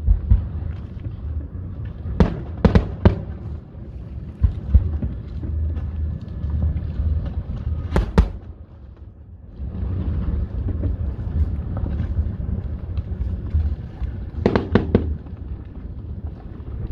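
Fireworks display: sharp bangs of shells bursting at irregular intervals, with a quick cluster of several near the end, over a continuous low rumble.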